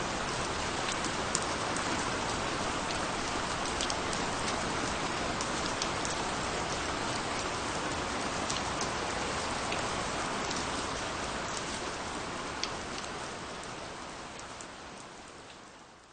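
Steady rain falling on a surface, with individual drops ticking sharply now and then. The rain fades out over the last few seconds.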